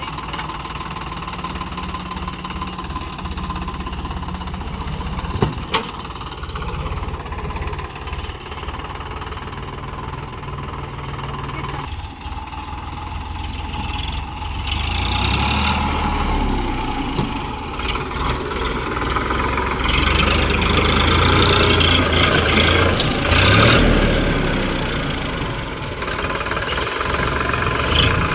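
Sonalika DI 734 tractor's diesel engine running, getting louder about halfway through as it is worked harder, and loudest a few seconds later.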